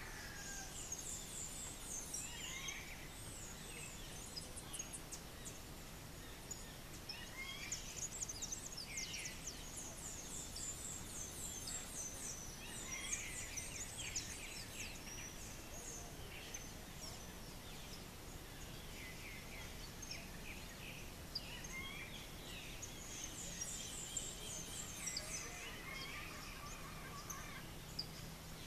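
Small birds calling: many high chirps and rapid trills, coming in clusters, over steady low background noise.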